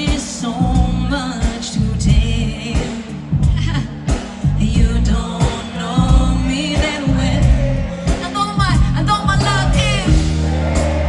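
Live pop band music with a woman's lead vocal singing over steady drums and bass.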